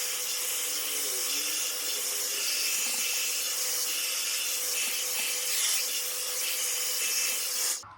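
Bombae Hairess 3-in-1 hot air brush's hair dryer attachment blowing on its high setting: a steady rushing hiss with a faint steady tone under it, switched off near the end.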